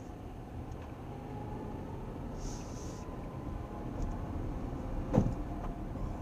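Car driving, heard through a dashcam: a steady low road rumble, with one sharp thump about five seconds in.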